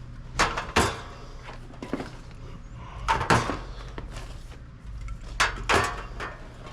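Sharp knocks and clatter of products and trays being handled while a vending machine is restocked, coming in three quick pairs, over a steady low hum.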